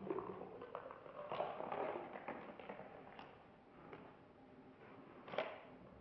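Close-up chewing of a McDonald's Grand Mac: wet mouth clicks and crackly smacking, busiest in the first few seconds, with one sharper click about five seconds in.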